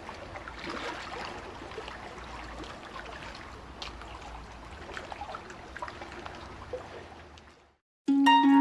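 A stream running and trickling steadily, fading out about seven and a half seconds in. After a moment of silence, music of plucked, harp-like notes starts near the end.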